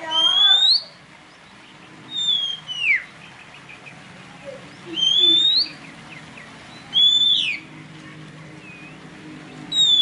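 Loud, clear whistled bird calls, five in all about two seconds apart: some notes slide upward, others fall or rise and then drop sharply.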